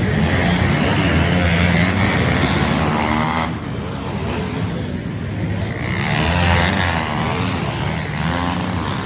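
Pit bike engines revving up and down as they race, the pitch climbing and falling with the throttle; the sound drops back about three and a half seconds in and swells again a few seconds later.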